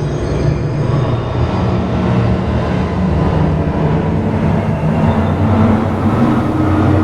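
Ambient electronic soundscape: a steady low rumble with held low tones beneath it.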